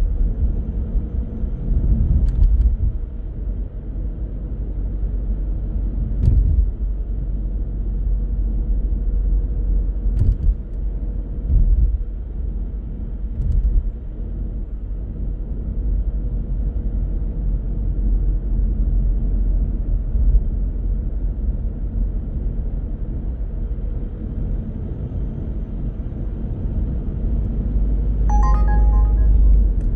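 Car driving on city roads: a steady low rumble of engine and tyre noise, broken by several short thumps. Near the end a pitched chiming tone with clear overtones starts and repeats.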